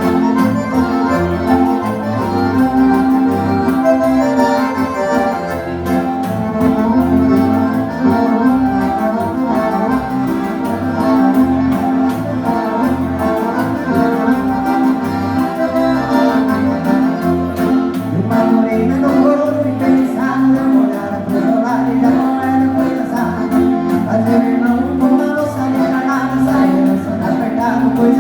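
Live gaúcho dance music led by a gaita (accordion), with sustained chords over a steady, rhythmic bass beat.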